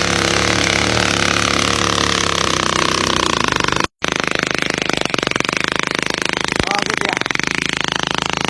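Motorcycle engine, modified with a raised exhaust and carburettor for riding through floodwater, running steadily with a rapid pulsing beat. The sound breaks off abruptly about four seconds in and comes back rougher and noisier.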